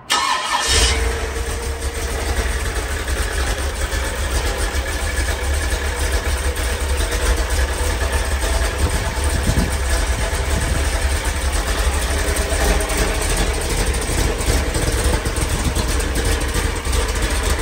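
Freshly built Ford 428 FE big-block V8 running at a steady idle on a run stand, with a rhythmic tapping from the bottom of the oil pan: the rod bolts are hitting the slits of the windage tray.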